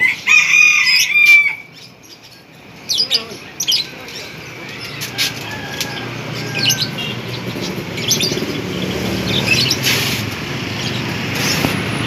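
Caged shop birds chirping and squawking: a loud burst of squawks in the first second and a half, then scattered short high chirps over a low background din.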